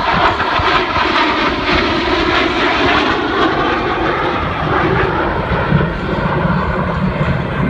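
Loud jet noise from Thunderbirds F-16 fighter jets flying past, a steady rushing sound whose tone shifts slowly as they pass.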